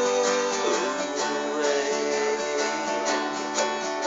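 Acoustic guitar strummed steadily in a song accompaniment, with regular strokes and chords ringing on between sung lines.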